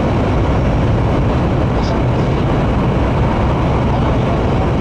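Steady rushing noise and low rumble inside the passenger cabin of an N700 series Shinkansen running at speed.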